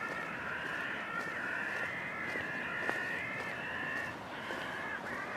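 Birds calling without a break, one high wavering cry running into the next throughout.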